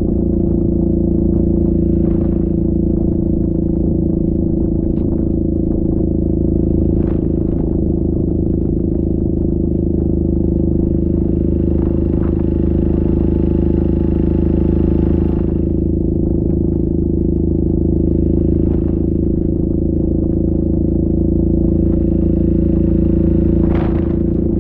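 Yamaha Grizzly 700 ATV's single-cylinder engine running at a steady speed, holding one even drone, with a few short scrapes and clatters now and then.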